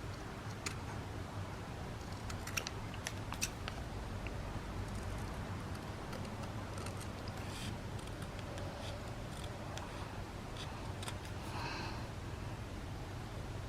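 Scissors trimming paper: scattered short snips and paper handling, over a low steady hum.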